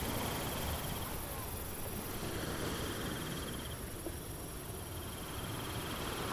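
Steady hiss of falling rain with an insect trilling in three short bursts, each about a second and a half long.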